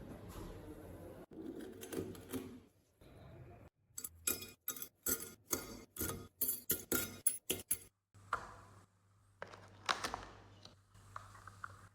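Small metal typewriter parts clicking and clinking, with a quick run of about fifteen sharp clicks in the middle and rustling handling noise before and after.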